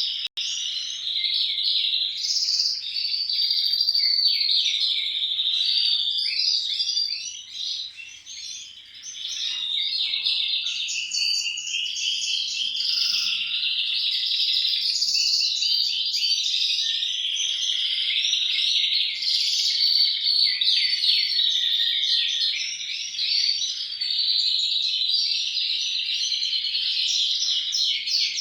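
Saffron finch (canário-da-terra) singing a long, almost continuous song of fast trills and chirps, with a brief lull about eight seconds in.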